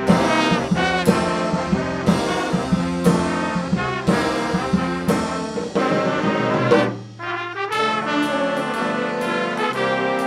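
Student band playing brass-led music, with strong accented chords about once a second and a brief lull about seven seconds in before the band comes back in.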